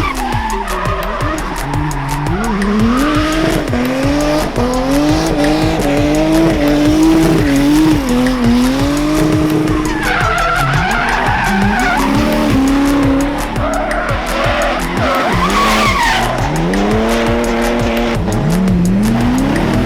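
A car drifting: its engine revs rise and fall repeatedly as the driver works the throttle, and the tyres squeal as they slide.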